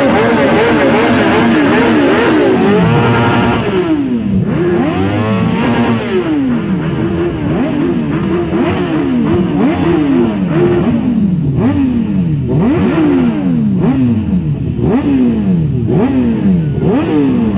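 Superbike engines revved again and again in quick throttle blips, each one rising sharply in pitch and dropping back, overlapping one another.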